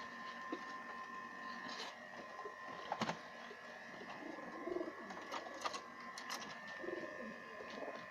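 Pigeons cooing, a few low coos in the second half, with several sharp clicks and a faint steady high hum underneath.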